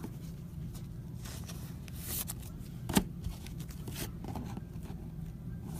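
Trading cards and packs being handled: short sliding and rustling sounds and a few clicks, with one sharp tap about three seconds in, over a steady low hum.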